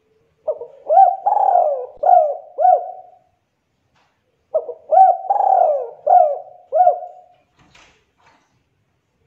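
Spotted dove (tekukur) singing: two cooing phrases a little over a second apart, each a quick run of four or five coos.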